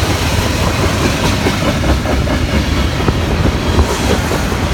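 CN freight train 399 passing, with a loud, steady clatter of steel wheels over the rails and a deep rumble underneath.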